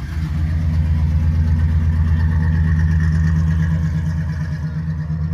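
Car engine running close by with a deep, pulsing exhaust rumble. It swells in the first second and eases off slightly near the end.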